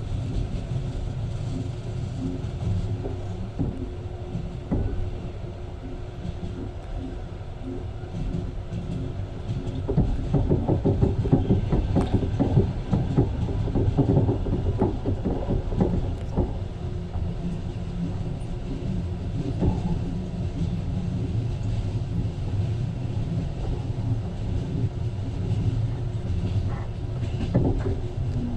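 Passenger train running along the track, heard from inside the carriage: a steady low rumble with wheels clattering over the rails, louder and busier for several seconds about a third of the way in.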